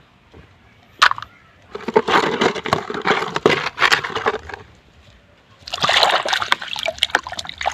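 Water splashing and sloshing as a plastic toy is scrubbed clean of mud, in two spells with a short pause between, after a sharp knock about a second in.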